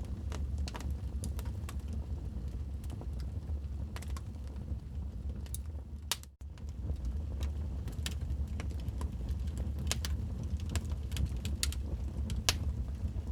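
Wood fire crackling: frequent sharp pops and snaps over a steady low rumble. The sound drops out for a split second about six seconds in.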